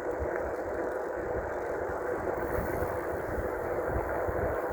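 Steady rush of a dual-motor electric bike under way, with uneven low wind buffeting on the microphone.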